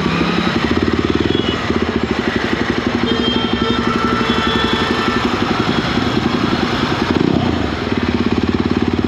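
Jawa 42 motorcycle's single-cylinder engine running steadily while riding, a fast even exhaust beat.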